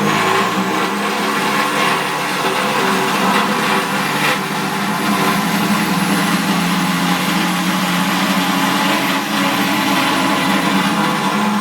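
Hand-held electric power tool, most likely a drill with a cutting bit, running steadily at full speed while it cuts and smooths a hole in sheet steel, with a high motor whine. The whine drops away as the tool winds down at the very end.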